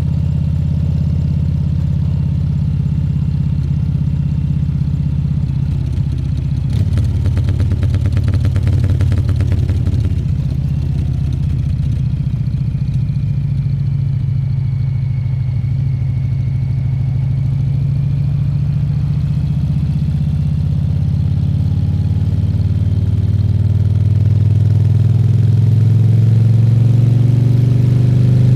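Harley-Davidson Fat Bob 114's Milwaukee-Eight V-twin engine running under way, loud and steady, with a stretch of rapid pulsing about a quarter of the way in. Over the last few seconds the engine note rises in pitch and level as the bike accelerates.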